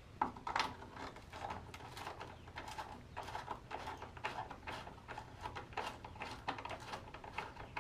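Irregular plastic clicks and taps, several a second, as a grille emblem is pried and worked loose from a pickup's plastic grille.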